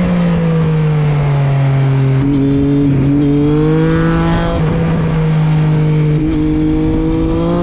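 Triumph 675 motorcycle's inline three-cylinder engine running hard. Its note sags slowly, breaks briefly a few times, then climbs near the end.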